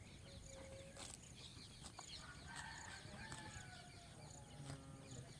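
A rooster crowing faintly once, a call of about a second and a half starting about two seconds in and falling in pitch at the end, over a steady faint hiss of rain.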